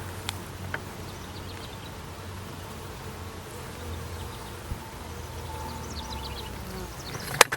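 Honeybees buzzing around a busy hive: a steady hum of many bees in flight. A sharp click near the end.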